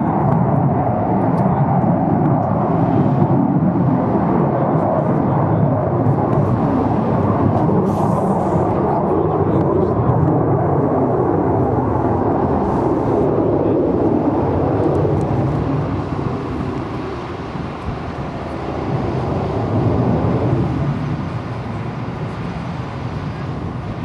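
Jet noise from an English Electric Canberra's twin Rolls-Royce Avon turbojets during a display pass: a loud, steady rumble that eases off about two-thirds of the way through, swells briefly again, then fades.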